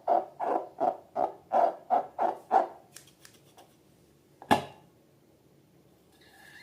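A rhythmic run of short pitched squeaks, about three a second, that stops a little before halfway, followed by a single sharp click.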